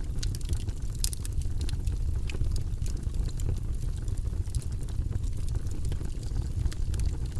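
Wood fire burning in a fireplace: logs crackling, with frequent irregular sharp pops over a low steady rumble of the flames.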